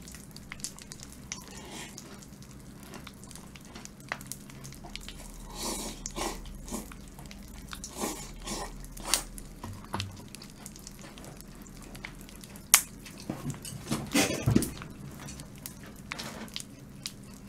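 Chewing and crunching of crispy boneless fried chicken coated in popping candy, with scattered sharp crackles from the candy popping. One louder crack comes about 13 seconds in, followed by a quick run of crunches.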